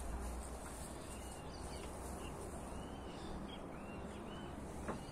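Faint bird chirps, short rising-and-falling calls repeating about once a second, over a steady outdoor hiss with a faint high buzz. A single sharp click sounds near the end.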